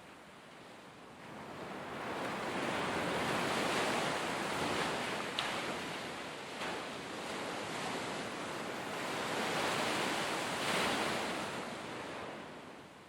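Sea waves breaking and washing up the shore in slow surges. The surf swells a couple of seconds in, swells again about ten seconds in, and ebbs near the end.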